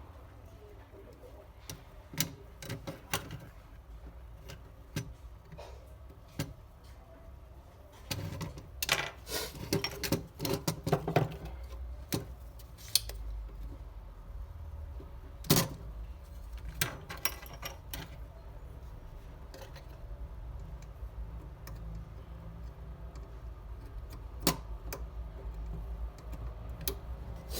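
Small metal hand tools clicking and tapping against an electronic circuit board as burnt components are desoldered and pulled off, in irregular sharp clicks with a busy flurry partway through.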